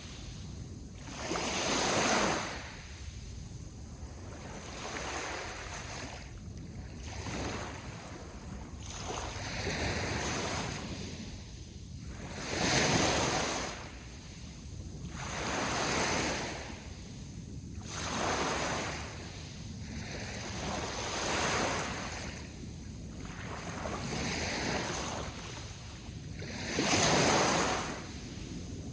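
Sea waves washing in on the shore, the surf swelling and falling back every few seconds, with the strongest surges about two seconds in, around thirteen seconds and near the end.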